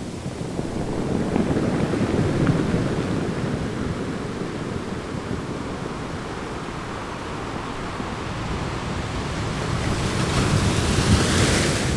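Ocean waves washing in a steady rush of surf, swelling about two seconds in and again near the end.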